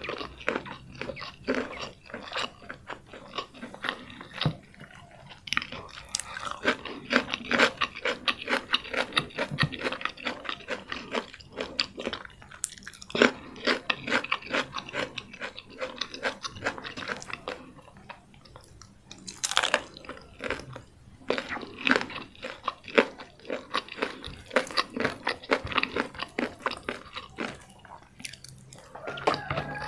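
Close-miked chewing and crunching of a mouthful of crispy fried chicken and nasi lemak rice: dense, irregular wet crackles and crunches, with a couple of brief lulls between bites.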